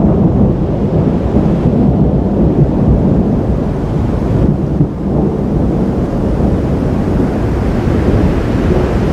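Thunder rumbling in a continuous low roll during a thunderstorm, loud and without a sharp crack.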